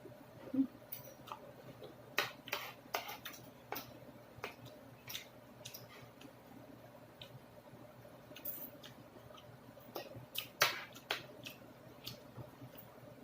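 Close-up eating sounds of someone finishing a soupy chicken dish: irregular wet mouth clicks and smacks while chewing, a few of them sharper and louder, over a faint steady hum.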